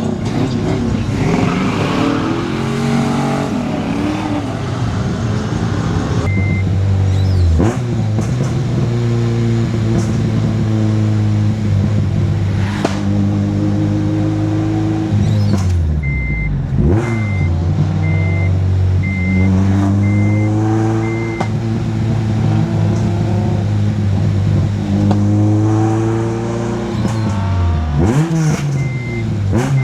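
Car engine accelerating, its pitch climbing steadily through each gear and dropping sharply at three upshifts. A short electronic beep repeats about once a second in places.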